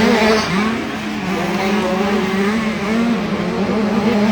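Two-stroke engines of 65cc motocross bikes racing, the engine note rising and falling as the riders work the throttle, with a short dip about half a second in.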